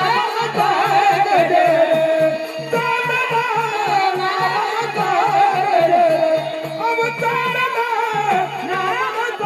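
A woman singing a folk-style song, her voice bending and ornamenting the melody, over a steady held drone and a low regular beat of about four a second.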